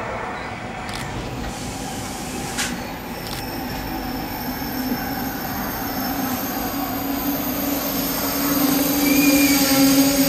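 SŽ class 310 Pendolino electric tilting train pulling into the platform and braking, with steady high-pitched squeals over a low hum that grows louder toward the end as it comes to a stop.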